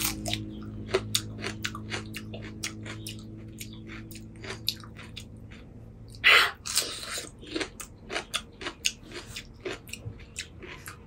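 A person chewing and crunching pani puri, the crisp hollow fried shells filled with spiced water: many small, irregular crunches and mouth clicks, with one louder, longer burst about six seconds in.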